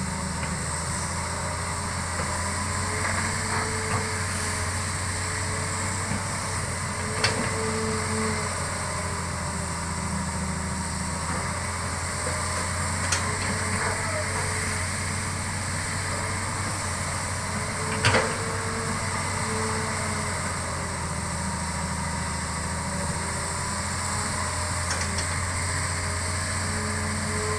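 Hitachi excavator's diesel engine running steadily under work, with a higher tone that swells and fades several times. A few sharp knocks cut through it, the loudest about two-thirds of the way in.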